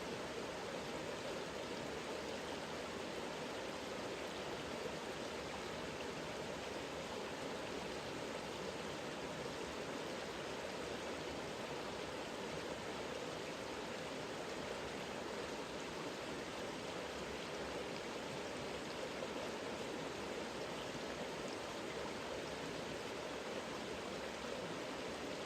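Mountain river flowing, a steady, unbroken rush of water picked up by a smartphone's microphone.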